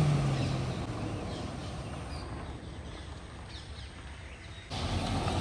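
Skoda Rapid's engine fading away as the car pulls off down the road, leaving faint bird chirps. About four and a half seconds in, a louder steady noise cuts in abruptly.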